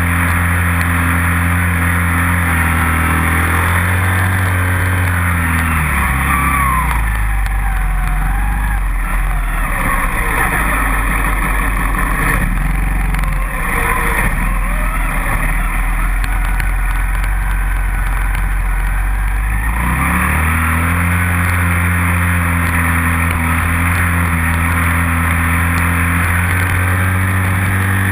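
Dirt bike engine running steadily. Its pitch falls about four to seven seconds in and stays low and rough for over ten seconds, then climbs back to the earlier steady pitch near the twenty-second mark.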